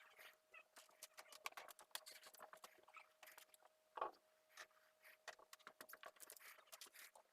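Faint, irregular clicking and tapping, with one slightly louder tap about four seconds in, over a faint steady hum.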